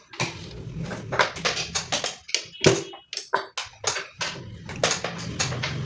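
Merritt household sewing machine being run, clattering with quick, irregular metallic clicks and knocks over a low hum. It is being tested after its stripped adjustment screw was replaced and the screws tightened, and its noise has reduced somewhat.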